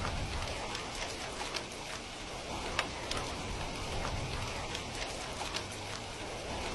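Steady rain with a few sharp pops from a crackling wood fire.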